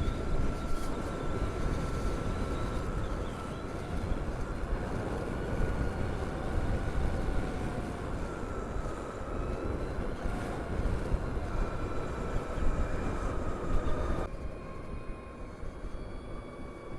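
Wind rushing over a helmet-mounted microphone while riding a Harley-Davidson LiveWire electric motorcycle, with the electric motor's thin whine rising and falling slightly with speed. The wind rush eases about fourteen seconds in.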